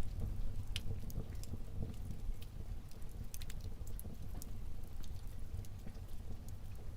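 Wood fire burning in a fireplace: a steady low rumble of flames with irregular sharp crackles and pops, a few clustered around the middle.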